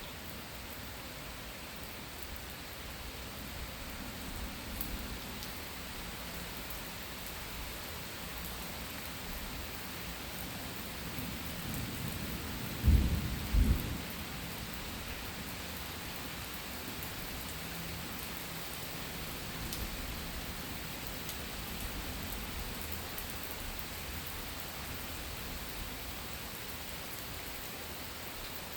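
Steady heavy rain falling, with a thunderclap about halfway through. A low rumble builds and breaks into two loud cracks, then fades back under the rain.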